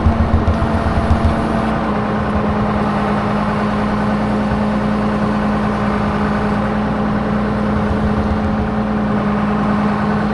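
A machine's engine running at a steady speed, giving a continuous hum with a heavier low rumble in the first second or so.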